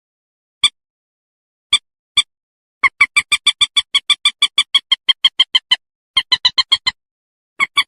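Common moorhen calls: a few single sharp notes, then a rapid run of about seven notes a second lasting nearly three seconds, followed by two shorter runs. The gaps between calls are dead silent.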